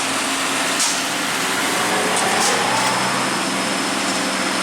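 A motor vehicle's engine running steadily, with a few faint clicks.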